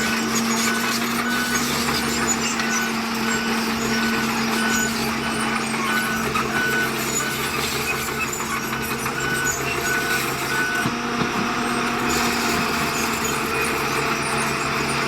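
Heavy diesel construction machinery running steadily, with a reversing alarm beeping over it at a regular pace until about two-thirds of the way through.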